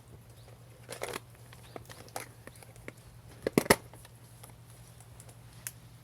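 Wood fire crackling, with scattered sharp pops: a few about a second and two seconds in, a loud cluster of three or four about three and a half seconds in, and one more near the end.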